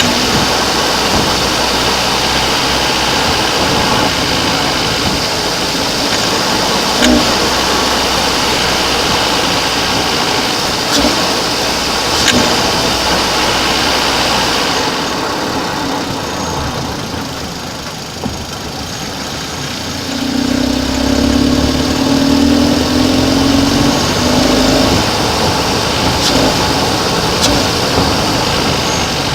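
Hyundai i30 engine running at idle, with a few sharp clicks standing out from the steady engine noise. This is the extraneous engine noise the owner is investigating. About halfway the sound loses its treble, and later a pulsing tone joins in for a few seconds.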